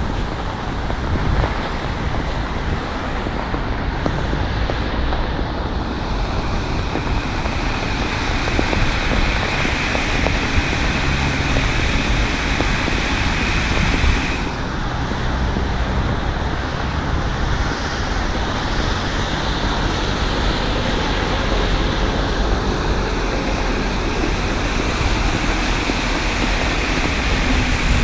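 Steady street traffic on a wet road: tyres hissing on the slushy pavement, swelling as vehicles pass, over a low rumble of wind on the microphone.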